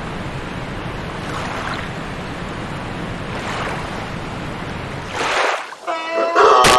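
Steady rushing noise like surf, swelling about every two seconds. Near the end it drops away into short pitched sounds and a sharp crack.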